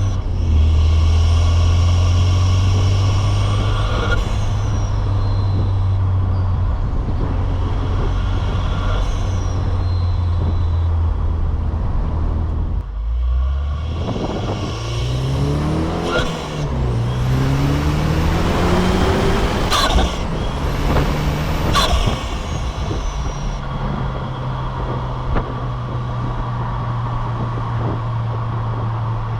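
2007 Saturn Sky Redline's turbocharged 2.0-litre four-cylinder on factory intake and exhaust, cruising with a steady drone. About halfway through it drops off, then pulls up through two rising gears with a shift between them and a high whistle, before settling back to a steady cruise.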